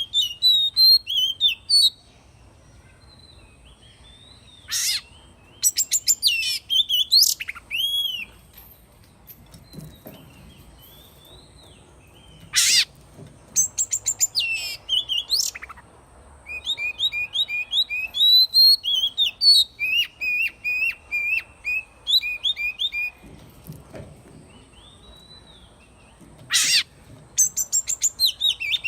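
Oriental magpie-robin singing: varied phrases of clear whistles and rapid chirps, in bouts of a few seconds separated by short pauses.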